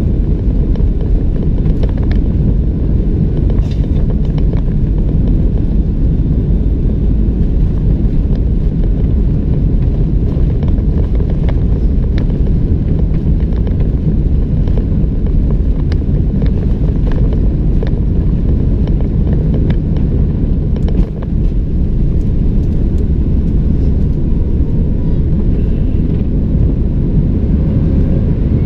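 Steady low roar of a Boeing 737-700's engines and rushing air, heard inside the cabin, with a few faint ticks over it.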